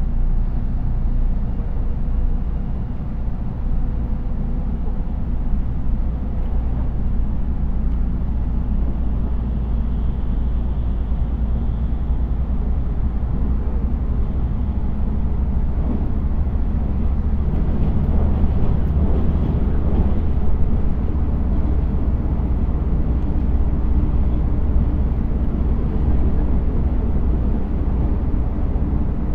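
Steady running rumble inside a JR 313 series electric train at speed: wheels on rail and the car's running gear. In the second half the noise turns busier and a little louder as a freight train of tank wagons runs alongside on the next track.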